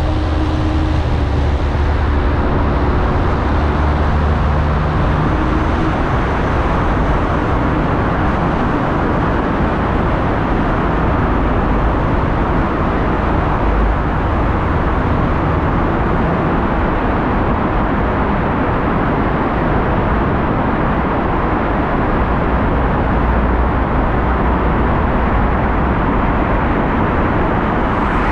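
Car driving along a city road: steady tyre and road noise over a low engine hum.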